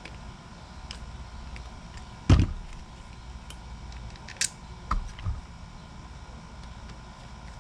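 Hand work on small parts and tools: one sharp knock about two seconds in, then a short high snap and a couple of lighter clicks a few seconds later, over a low steady background.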